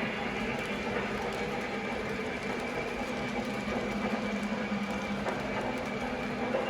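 Model train running on its track: a steady hum of the locomotive with the rolling sound of wheels on rails.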